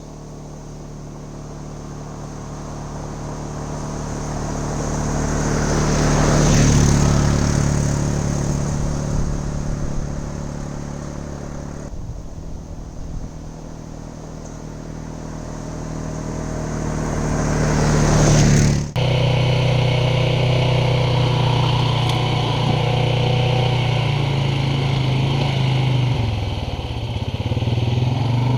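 ATV engine running, growing louder and then fading as it passes by, twice. About two-thirds of the way through, the sound switches abruptly to a steady, close engine under way.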